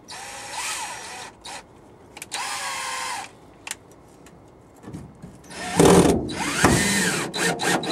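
Power drill running in three bursts, the last and longest the loudest, its whine rising and falling in pitch as the trigger is squeezed and let off.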